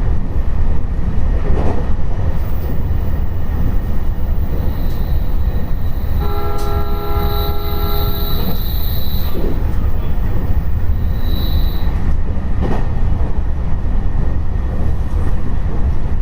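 Electric multiple-unit train running at speed: a continuous low rumble of wheels on rail. About six seconds in, a horn-like chord of several steady tones sounds for about two seconds, with a thin high whine around it.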